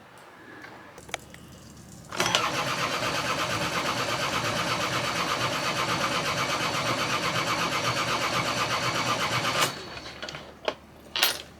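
Sailboat's diesel engine cranked by its starter motor for about seven and a half seconds with an even pulsing rhythm, then cut off suddenly: the engine does not start.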